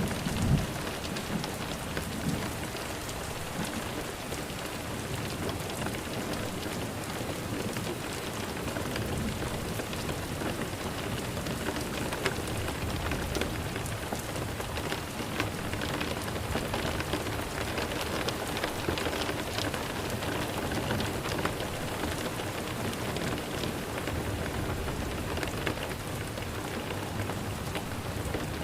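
Steady rain falling, a dense patter of drops. A brief low rumble in the first second.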